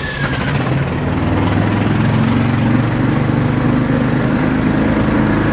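ATV engine running while the quad is ridden, a steady low drone that grows louder about a second in and then holds even.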